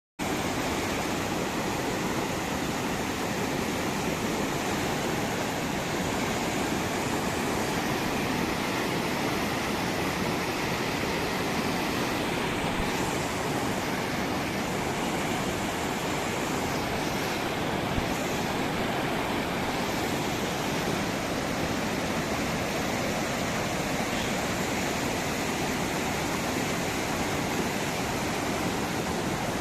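Fast-flowing Himalayan stretch of the Ganga river rushing, a steady, unbroken roar of water.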